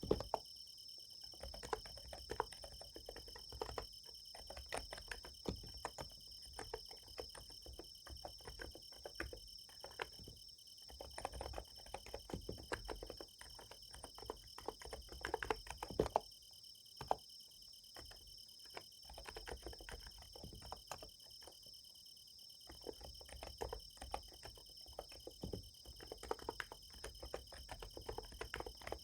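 Typing on a Niz Plum x108 capacitive keyboard: soft keystrokes in irregular runs with short pauses, over a steady high chirring of night insects such as crickets.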